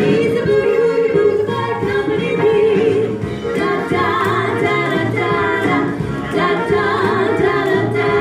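A vocal duo singing in harmony over instrumental backing, with a steady bass line.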